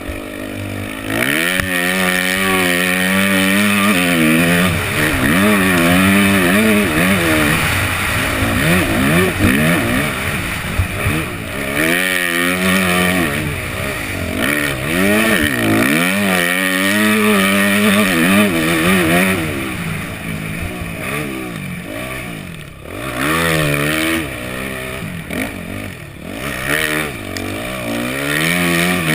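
Yamaha 250F four-stroke single-cylinder motocross engine revving up and falling back over and over as the throttle is opened and shut through the gears.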